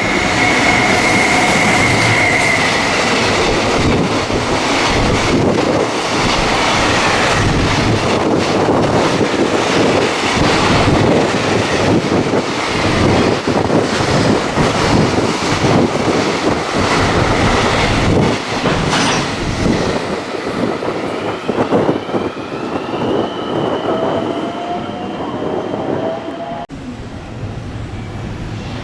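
An electric train passes close by at speed, a dense rumble with rapid clatter of wheels over rail joints. A steady high squeal sounds for the first few seconds, and near the end a rising whine comes through as the train noise eases.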